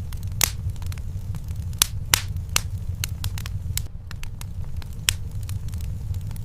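Wood fire burning in a fireplace: a steady low rumble of flames with irregular sharp crackles and pops from the burning logs, a few of them louder.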